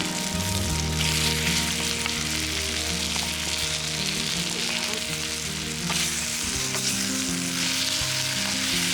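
Kimchi, pork-belly and takuan fried rice sizzling steadily as it fries in hot sesame oil, with a few light clicks of stirring, over background music.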